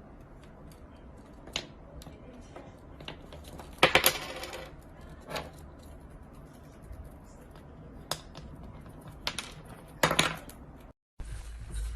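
Scattered light clicks and taps of small hard objects, with louder clinking clatters about four seconds in and again about ten seconds in.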